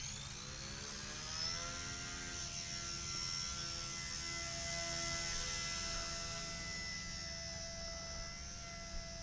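Small electric remote-control helicopter's motor and rotors spinning up with a rising whine in the first second or so, then holding a steady whine as it flies.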